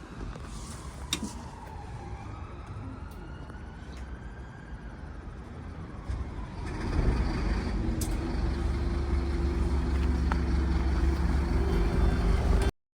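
Scania N230UD Omnicity double-decker bus on the move, its drivetrain whine falling and then rising in pitch. About seven seconds in, the diesel engine grows much louder with a steady low drone as the bus pulls harder, with a couple of sharp clicks, until the sound cuts off suddenly near the end.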